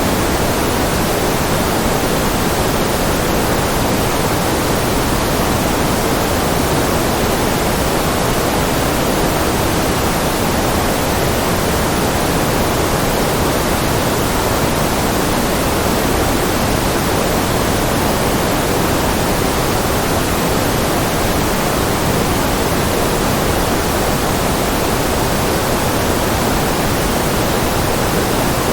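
Steady synthetic white noise, an even, unchanging hiss across the whole range with a slightly fuller low-middle, in the manner of pink noise.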